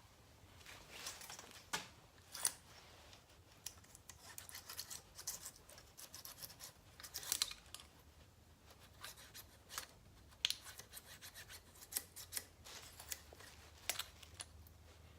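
Steel feeler gauge blades being slid into and scraped around the narrow gap between an alternator rotor and stator, giving irregular light metallic clicks and short scrapes while the air-gap clearance is checked.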